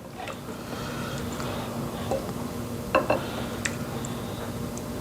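A few light clinks and taps of dishes and utensils over a steady low hum, with the loudest click about three seconds in.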